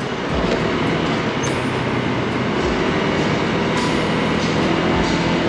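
Steady rush of wind and road noise from riding a Honda Click 160 scooter in traffic, with a low engine hum underneath.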